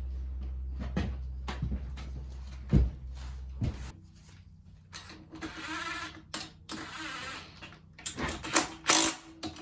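Hand tools clicking and clanking on metal as the engine mounting bolts are worked in, with a steady low hum that stops about four seconds in.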